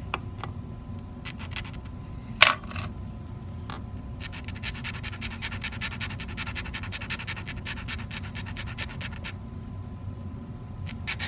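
Hand file scraping on a 14k gold prong in a quick run of strokes lasting about five seconds, after a single sharp tap about two seconds in.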